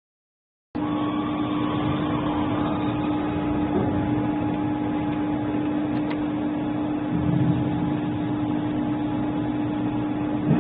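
Doosan DVF 5000 five-axis CNC machining centre running: a steady mechanical noise with a constant pitched hum. It starts abruptly just under a second in and cuts off sharply at the end.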